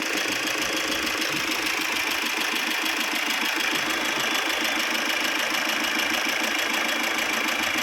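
Tata Vista engine idling steadily with a fast, even pulse, left running so that water circulates through the cooling system after the oil cooler was replaced.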